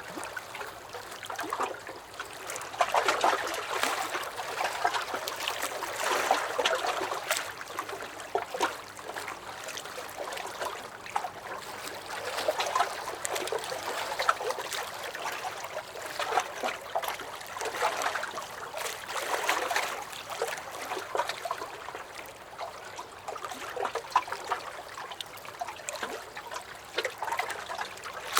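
Small lake waves lapping and sloshing against a dock, swelling and easing every two to three seconds with little splashes and trickles.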